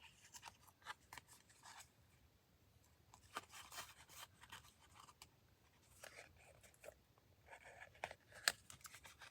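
Faint rustling and scratching of a paper tag and thread being handled during hand stitching, broken by a few sharp clicks, the loudest about eight and a half seconds in.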